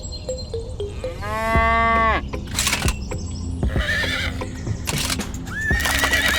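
A cow mooing once for about a second, rising in pitch and falling away at the end, over background music.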